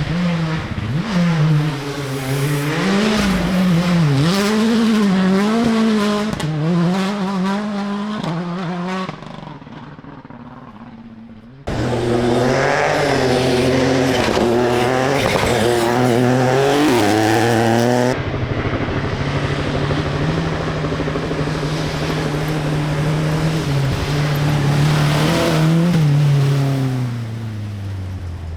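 Rally car engines revving hard: the pitch climbs and drops with throttle and gear changes as cars are driven flat-out, in a few separate passes. Tyre noise comes in on the sideways driving.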